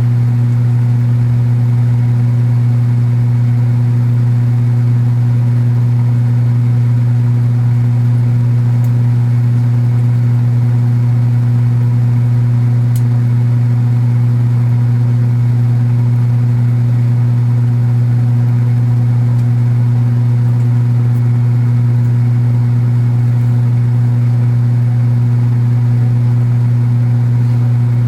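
Kenmore belt-drive portable washing machine running steadily, its motor giving a loud, even low hum with a buzz over it; the owner notes that the cabinet buzzes.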